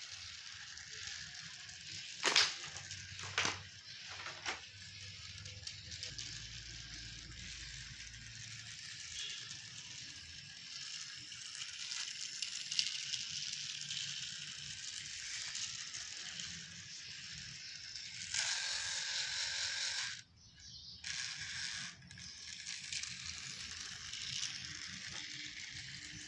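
Battery-powered toy electric train running around its track: a steady whirring rattle of the small motor and wheels, with a few sharp knocks a few seconds in and a louder stretch near the end.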